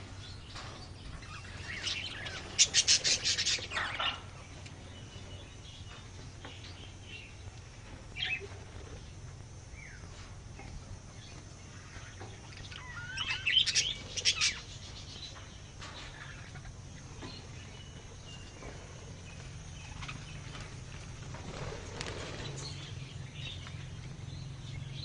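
Small birds chirping in two loud bursts of rapid high notes, about two seconds in and again around thirteen to fourteen seconds, with a single short call around eight seconds and fainter calls between, over a faint steady low hum.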